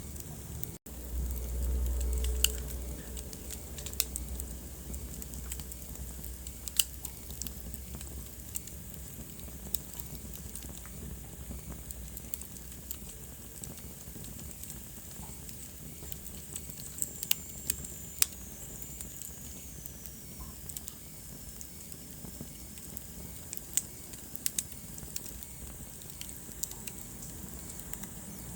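Wood fire crackling in a fireplace, with irregular sharp pops over a soft bed of burning. A low rumble of the flames swells for a couple of seconds near the start, and a faint high whistle slides downward about two-thirds of the way through.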